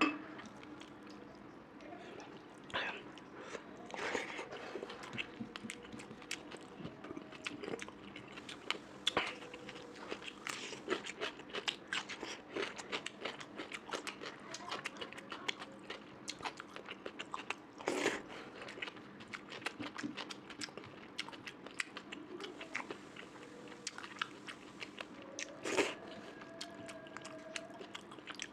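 A person chewing and biting food close to the microphone: a steady run of short wet mouth clicks, with louder single bites about eighteen seconds in and again near the end.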